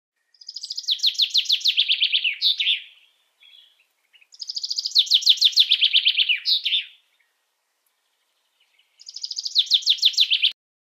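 A small bird singing three phrases, each a rapid trill of about ten notes a second lasting two to three seconds, with pauses between them.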